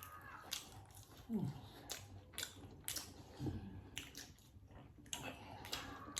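Close-up eating sounds: chewing with irregular wet smacks and clicks of mouth and lips, and two brief low hums about one and three and a half seconds in.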